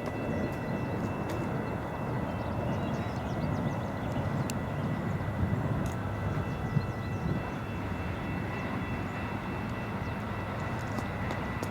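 Steady running noise of an Amtrak train led by two P42 diesel locomotives, engines and wheels without the horn, with a faint steady high whine above it and a few light clicks.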